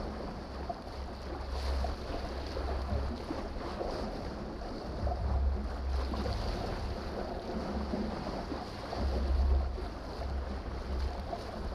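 Wind buffeting the microphone in gusts over the rush of waves along a sailboat's hull.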